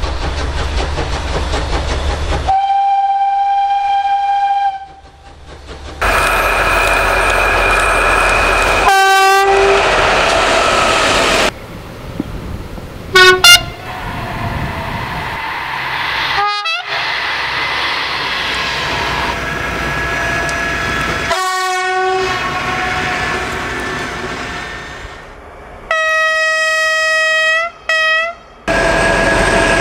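A run of spliced clips of Makrofon train horns on passing trains. It opens with one long steady horn tone, then several two-tone blasts that step from a high note down to a low one, and near the end a string of short blasts. Between the horns, trains run past with rumbling and rail clatter.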